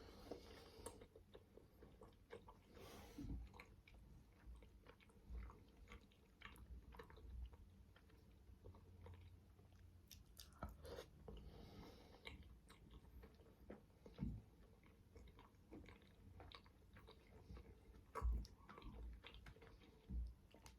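Quiet close-up chewing of manti dumplings: soft mouth and chewing sounds with many small clicks, and a few stronger low thumps toward the end.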